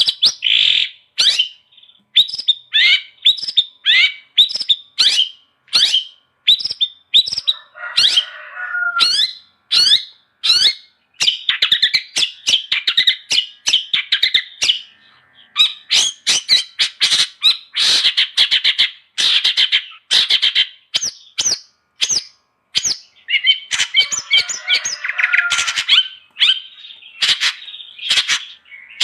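Long-tailed shrike singing continuously: a fast run of sharp, piercing chirps and whistled notes, broken twice by bursts of harsh, scratchy chatter.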